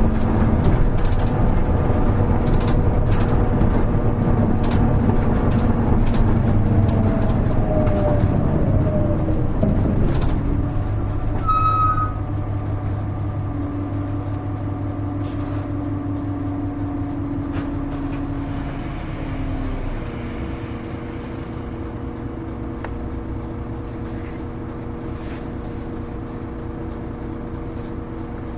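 Inside a Hino KL-HR1JNEE diesel route bus: the engine and drivetrain run loudly under way for about ten seconds, then settle to a quieter steady running sound. A short bright tone sounds about twelve seconds in, and the engine drops lower again near the end.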